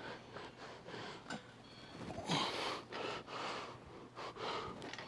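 A man breathing hard with effort during a weightlifting set: a run of short, noisy breaths about every half second, with a louder strained gasp about two and a half seconds in.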